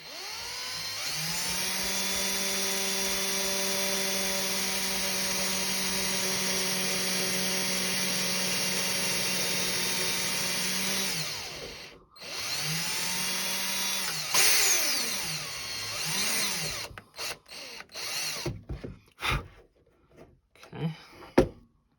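Small electric drill boring through the plastic of a model ship's hull to enlarge a propeller-shaft hole. It spins up, runs with a steady whine for about ten seconds and winds down, then runs again briefly for about two seconds. Scattered clicks and knocks follow as the drill and hull are handled.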